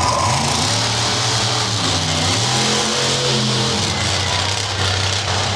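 Monster truck engine revving, its pitch stepping up and down several times over a loud, steady hiss.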